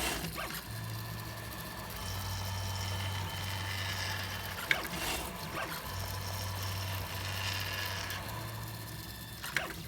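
3D printer's stepper motors driving the bed and print head mid-print: a steady motor hum and whine that starts and stops in stretches as the axes move. A sharp click about halfway through, and another near the end.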